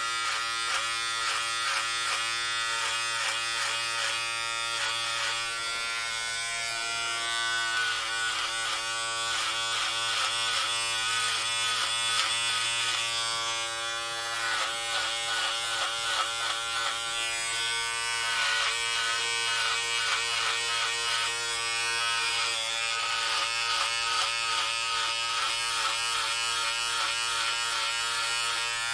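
Electric hair clippers buzzing steadily while cutting hair, the tone wavering slightly as the blades work through it.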